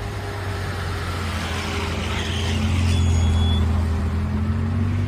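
A motor vehicle's engine rumbling in street traffic. It grows louder to a peak about three seconds in, then eases off.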